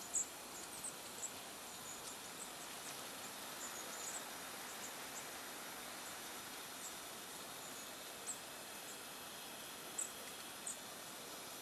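Long-tailed tits calling: short, very high, thin chirps, some in quick clusters, scattered over a steady background hiss. The calls come thickest in the first few seconds, with a couple of louder ones later.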